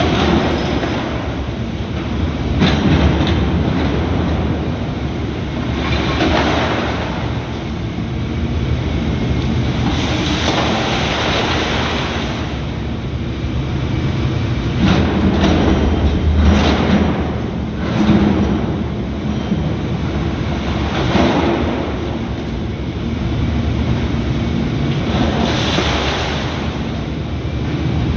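Volvo ECR235EL excavator's diesel engine running under work, a continuous low rumble that swells every few seconds.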